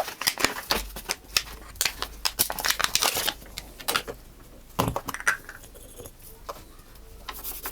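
A metal tool scraping and picking at old adhesive residue on a phone's frame, a run of irregular scratches and sharp clicks.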